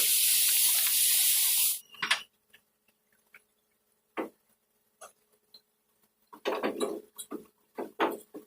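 A steady hiss of compressed air from an air tool in bodywork, cutting off suddenly about two seconds in. Scattered clinks and knocks follow, then a quick run of knocks and clatters near the end.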